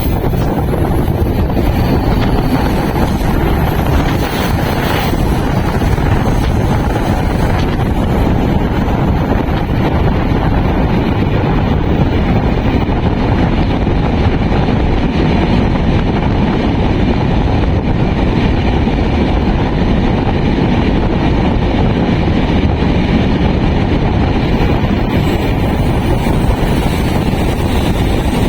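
Steady rush of wind buffeting the microphone over the continuous low rumble of a passenger train running along the track, heard from on board the moving train.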